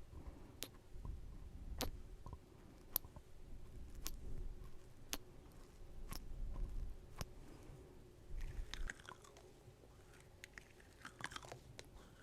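Close-miked chewing with crisp crunching clicks, about one a second, over a soft low rumble.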